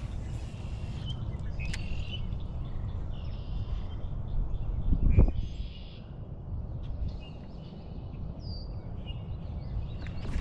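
Birds chirping in short calls over a steady low rumble, with one louder thump about five seconds in.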